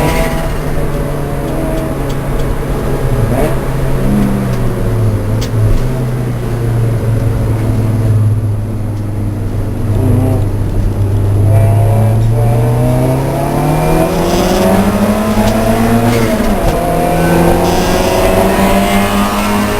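A Lancia Delta race car's engine running continuously at racing speed. Its note sinks slowly, then climbs under acceleration. It drops abruptly about three-quarters of the way through, as at a gear change or a lift, then climbs again.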